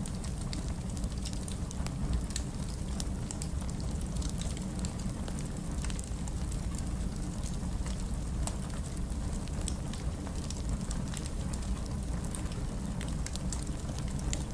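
Wood fire burning in a fireplace: a steady low rumble with frequent small, sharp crackles and pops.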